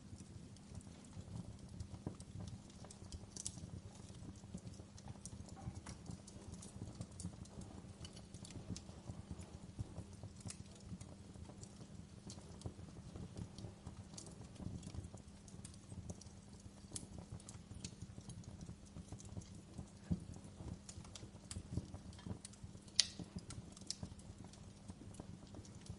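Wood fire crackling in a fireplace: irregular pops and snaps over a low steady rumble of the flames, with one sharper pop near the end.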